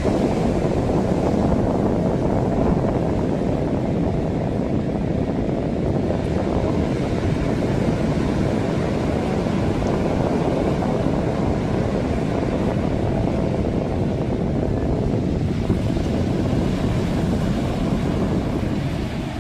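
Sea waves washing on the shore in a steady low rush, with wind buffeting the microphone.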